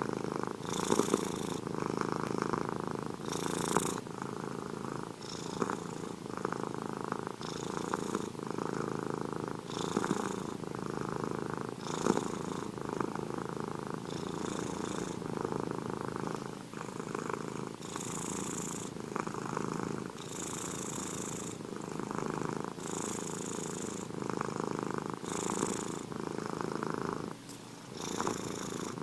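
Domestic cat purring steadily, the purr swelling in a regular rhythm about every two seconds with its in- and out-breaths, with a brief drop shortly before the end.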